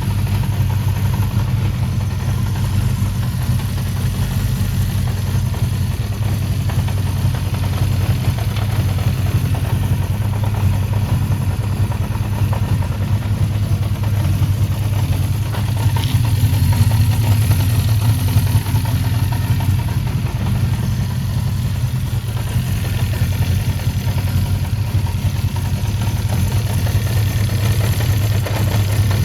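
Honda CB400F's 408cc air-cooled inline-four engine idling steadily, a little louder for a couple of seconds past the middle. The seller notes the engine makes a little mechanical noise of its own.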